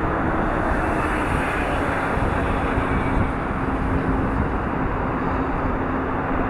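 Loud, steady engine noise with a rushing quality, and a faint hum that drops slightly in pitch partway through.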